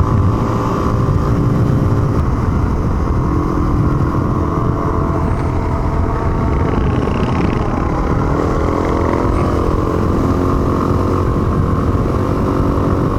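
Motorcycle engine running steadily while riding, its note shifting slightly a few times, over a constant low rumble.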